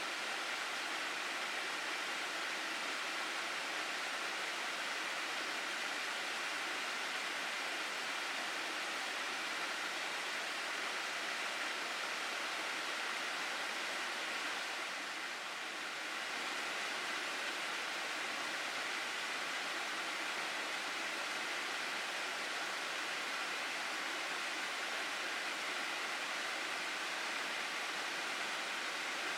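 Water rushing steadily down the stream in Minamihara Gorge, an even rush with no other sounds. The level dips slightly for a moment a little past halfway.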